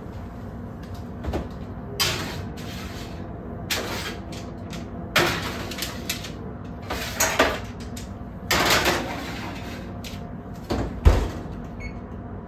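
Kitchen clatter while baking: a series of brief scraping and knocking sounds of pans and utensils being handled, over a steady low hum, ending about eleven seconds in with a heavy thump of something shutting.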